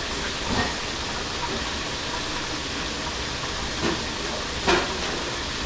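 Chicken pieces frying in oil, a steady sizzle, with a few light knocks on top of it.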